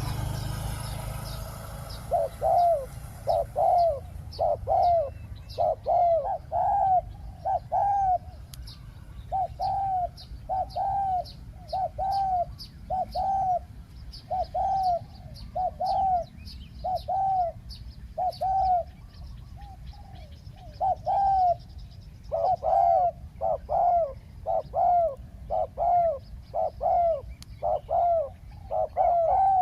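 Spotted dove cooing over and over: a long series of short, arched coos that starts about two seconds in, with small birds chirping faintly higher up.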